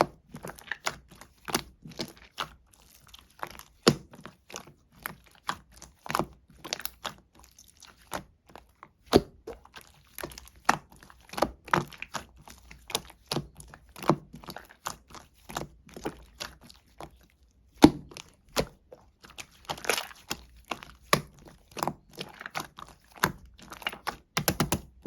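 Orange slime being squished and pressed by hand: trapped air bubbles popping and crackling in a quick, irregular run of small clicks and pops.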